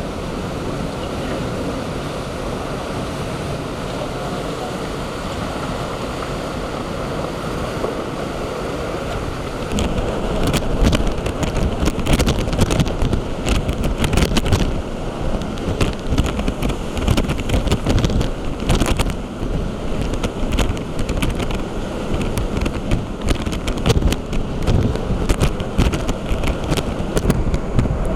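Typhoon-force wind and storm-surge surf: a steady rush of waves and wind, then from about ten seconds in strong gusts start buffeting the microphone with rapid, uneven crackling hits over the rumble.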